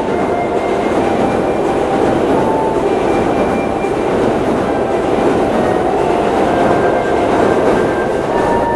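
Electric train running past close by: a loud, steady rush of wheel and running noise on the rails that builds slightly and holds.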